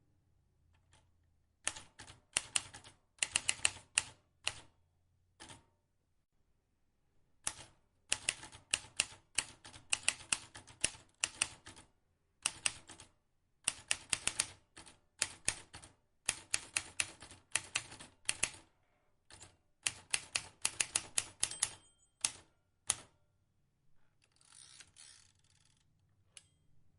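Vintage manual typewriter keys being struck in fast runs of sharp clicks, in several bursts of typing separated by pauses of about a second. Near the end there is a short rasping sound and then a single click.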